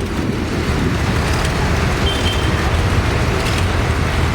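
Tractor engines running steadily, a low rumble.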